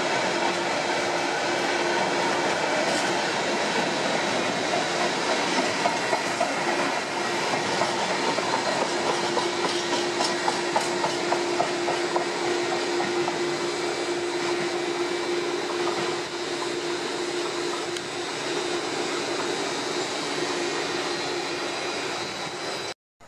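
A freight train's container flat wagons rolling past on the track. A steady loud rumble with a steady tone running through it, and a rhythmic clickety-clack of wheelsets over the rails for several seconds in the middle. It cuts off suddenly near the end.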